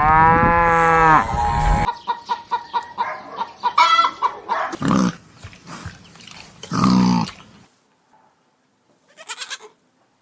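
Goats bleating: a long call at the start, a quavering stretch, then two more calls, with a short faint one near the end.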